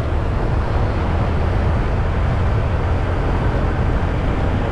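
Motorcycle riding noise picked up by a helmet-mounted action camera: a steady rush of wind and road noise over the low drone of the engine at cruising speed.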